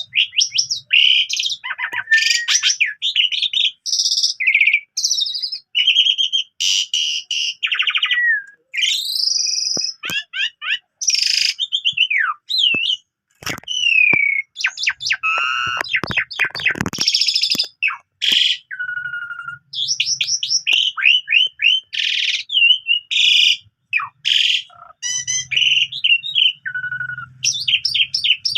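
Black-collared starling (jalak suren) singing a long, varied song of loud whistles, rising and falling glides and rapid trills. The song is packed with mimicked phrases ('full isian').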